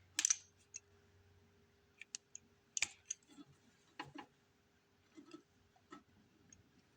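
Scattered light clicks and taps of small snowblower parts being handled and fitted by hand, with a faint steady hum underneath.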